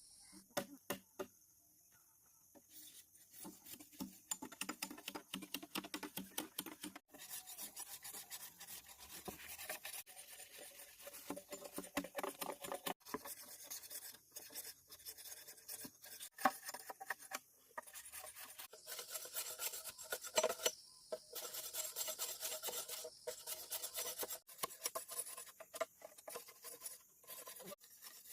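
Rapid, repeated scraping strokes of manual work, coming in runs with short pauses between them.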